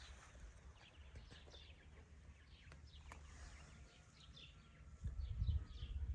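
Birds chirping over and over, with many short, high, falling chirps, above a low rumble that swells briefly about five seconds in.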